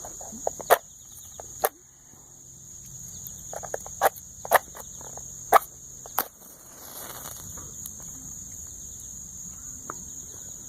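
Crickets chirping steadily, with a handful of sharp, separate clicks over the first six seconds.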